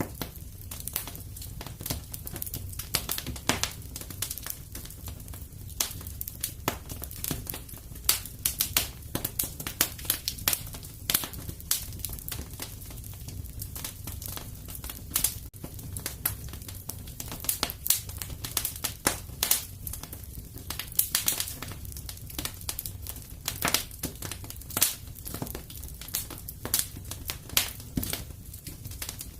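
Fireplace wood fire burning steadily: irregular sharp crackles and pops over a low, even rumble of flame.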